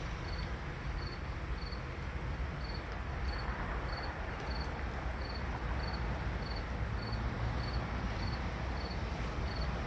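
A cricket chirping in short, evenly spaced pulses, about two a second, over a steady low background hum.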